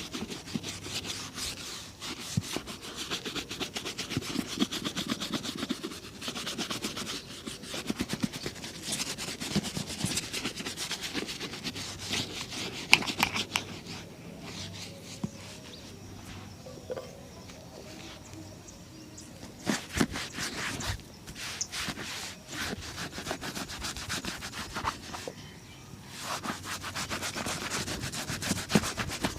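A leather shoe being rubbed during a shoe shine: quick repeated scratchy rubbing strokes, with a few sharper knocks, the loudest about 13 seconds in and more around 20 seconds.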